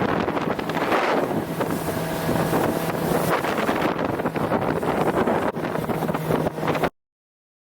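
Small creek boat's outboard motor running steadily under way, with wind buffeting the microphone. Cuts off abruptly near the end.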